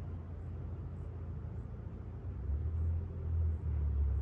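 Low, distant rumble of a car engine and exhaust out of sight, growing a little louder after about halfway.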